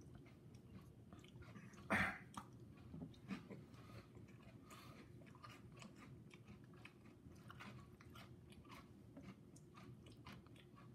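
Crunchy corn cereal dusted with ghost-scorpion pepper powder being chewed in a quiet series of small crunches. There is one louder sudden sound about two seconds in.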